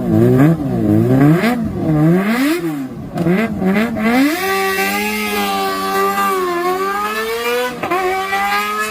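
Kawasaki ZX-25R's inline-four engine revving through an aftermarket exhaust: four quick blips that rise and fall, then a hold at high revs for about four seconds before the revs drop near the end.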